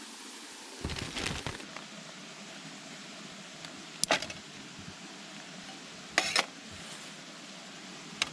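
A few short clatters and knocks of something being handled, about a second in, about four seconds in, twice around six seconds in and once at the end, over a steady rushing background.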